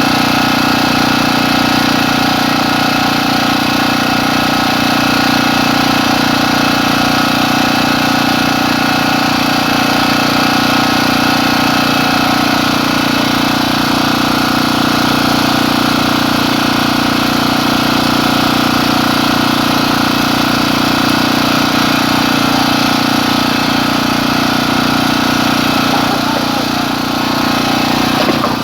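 An engine running steadily at a constant speed, a continuous hum that holds one pitch throughout.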